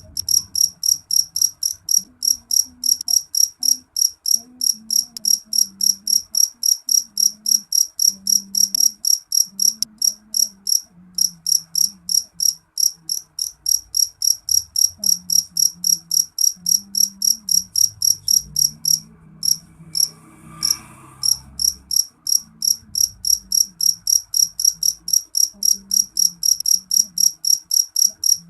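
A cricket chirping in a steady, even rhythm of about three to four short, high-pitched chirps a second, pausing briefly about two-thirds of the way through.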